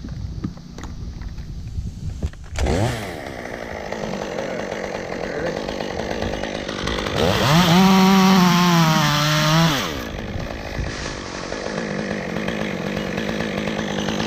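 Chainsaw revving up about two and a half seconds in and running steadily. Near the middle it runs at full throttle for a few seconds, its pitch sagging under load as it cuts through the hackberry top, then eases back to a lower, steady run.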